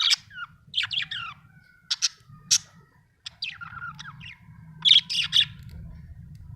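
Budgerigar chirping: a string of short, sharp, high chirps and squawky warbles in irregular clusters, the loudest group about five seconds in.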